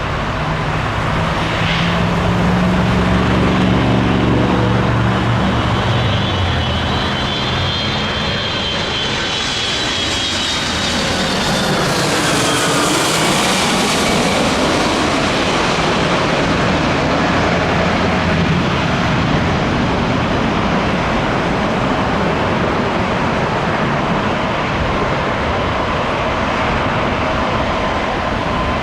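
Jet airliner passing low overhead on landing approach: a high engine whine that falls in pitch as the aircraft goes over, about twelve seconds in, then a steady jet roar. A low engine hum underlies the first several seconds.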